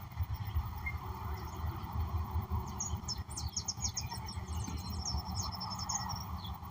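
Birds singing: from a little under halfway through, a quick burst of high chirps and a fast, even run of high notes, over a steady low rumble.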